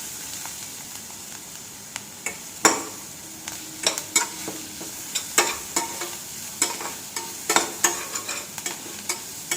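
Chopped onions and green chillies frying in oil in a pan with a steady sizzle, while a spatula stirs them, scraping against the pan in irregular strokes.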